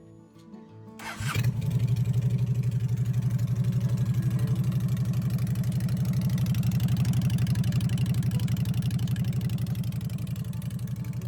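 Honda Shadow 750's V-twin engine starting about a second in, then idling with an even, rapid pulsing beat.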